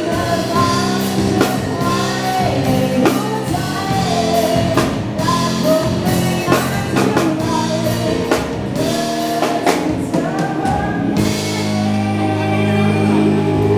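Live pop band playing a song with a lead vocal over drum kit. About eleven seconds in the drums stop and the band holds a sustained chord.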